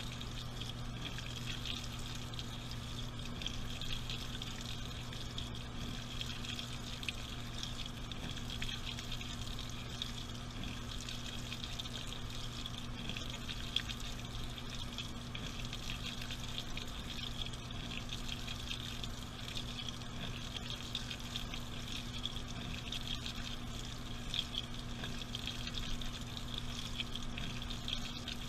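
Washing machine filling with water: water streams steadily into the drum over a constant low hum.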